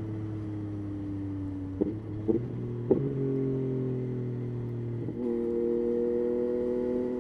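Yamaha Tracer 9's three-cylinder engine running on the move, its note slowly falling. Three short sharp knocks come about two to three seconds in. Just after five seconds the pitch steps up and then climbs gently.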